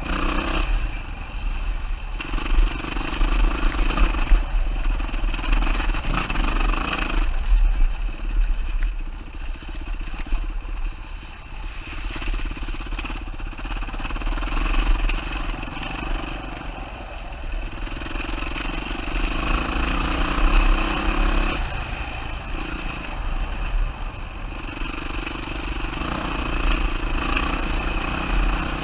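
2007 Yamaha WR450's single-cylinder four-stroke engine running under a throttle that opens and closes every few seconds, over a heavy, constant low rumble.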